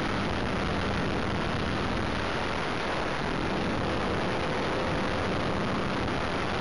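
Radio-controlled helicopter in flight, heard from a camera mounted on board: a steady, dense whir of rotor and motor noise.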